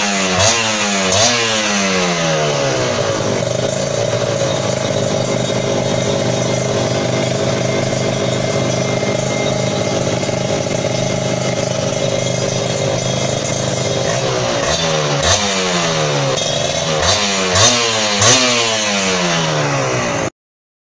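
Kawasaki Ninja R two-stroke engine through an SDM Racing Bluemoon aftermarket exhaust: the revs fall away from blips at first, then it idles steadily for about ten seconds, then it is revved in several quick blips near the end before the sound cuts off.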